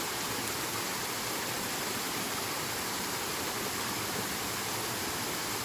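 Steady rush of flowing and falling water from a waterfall: an even, unbroken noise.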